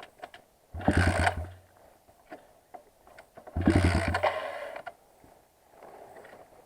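Kayo 140 pit bike's single-cylinder four-stroke engine being turned over by its electric starter in two short attempts, about a second in and again near four seconds, without catching.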